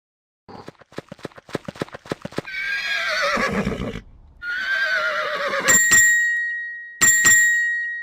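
Horse hooves clip-clopping, then a horse neighing twice, each whinny wavering and falling in pitch. Near the end come two ringing metallic dings about a second apart.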